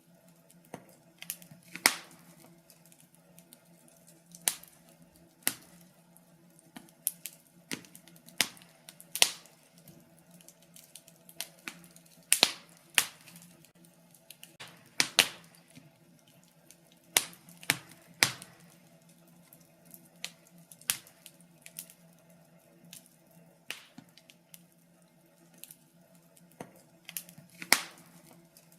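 Wood fire in a fireplace crackling, with irregular sharp pops, a few of them loud, over a faint steady hum.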